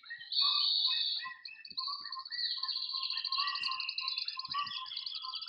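Recorded bird songs played back by a motion-triggered sound installation, several birds overlapping: a fast high trill starts shortly in and runs on, with warbled, chirping notes lower down.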